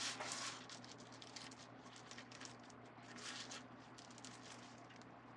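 Faint rustling and crinkling of plastic deco mesh as it is handled and folded, in a few soft irregular bursts, over a low steady hum.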